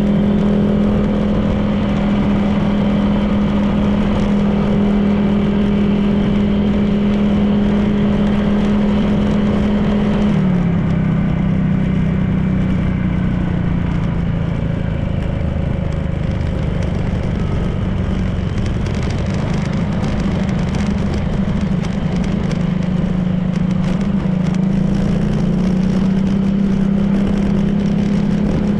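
Honda PCX 160 scooter's single-cylinder engine running under way, with road and wind noise. The engine note holds steady, eases off about ten seconds in, and picks up again near the end.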